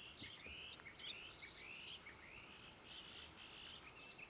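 Small birds chirping and twittering continuously, short rising chirps and quick trills overlapping one another, faint.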